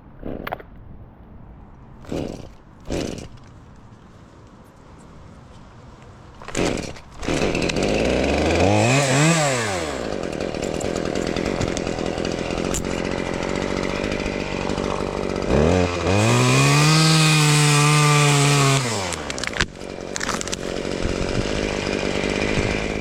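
Two-stroke chainsaw running after a few short loud sounds: it revs up and straight back down, runs at a lower speed, then is held at high revs for about three seconds before dropping back.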